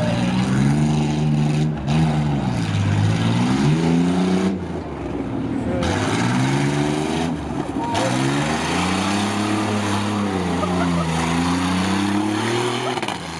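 Truck engine revving hard on a rough off-road course. Its pitch climbs and drops several times as the driver accelerates and lifts off between obstacles.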